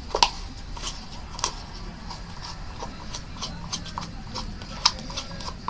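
Homemade glue-and-lotion slime being handled, giving scattered small sticky clicks and snaps.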